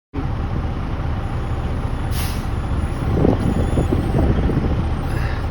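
Heavy vehicle engine running with a steady low rumble, with a short hiss of air, like an air brake, about two seconds in.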